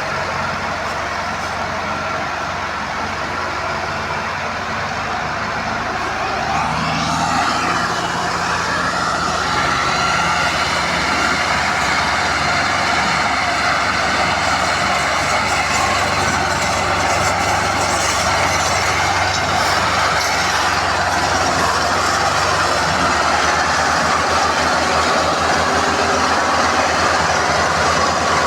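Massey Ferguson 385 tractor's diesel engine running steadily under load, pulling a heavily loaded trolley. About seven seconds in it builds up louder and harsher and stays there.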